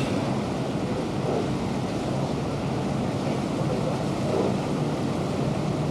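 Steady drone of a boat's engine under way, with water rushing along the hull and wind buffeting the microphone.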